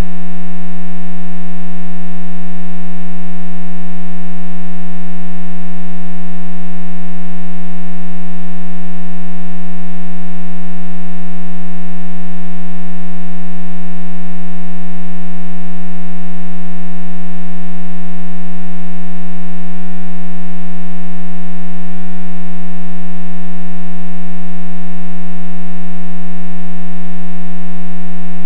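Loud, steady electrical-sounding hum at one fixed low pitch with a row of overtones, unchanging throughout.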